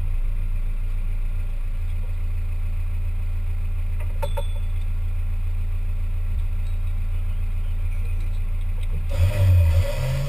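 Off-road 4x4's engine running steadily at low revs, then revving up with a brief surge about nine seconds in.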